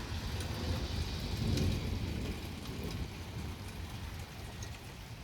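Steady rain falling on surfaces, with scattered drops ticking. Under it a low rumble of thunder swells about one and a half seconds in, then slowly dies away.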